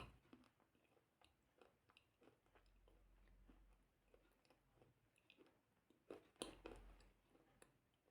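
Faint, irregular chewing clicks and crunches, a little louder about six seconds in, over near silence.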